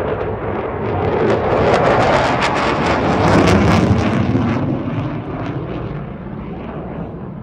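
F-16 fighter jet passing, its engine noise swelling to a loud peak a couple of seconds in with a crackling edge, then fading away.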